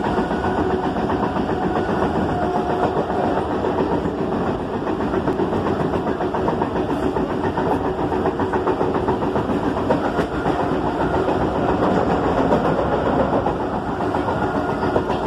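Mumbai suburban electric local train (EMU) running along the track, heard from inside the carriage: a steady, loud rumble of the wheels on the rails.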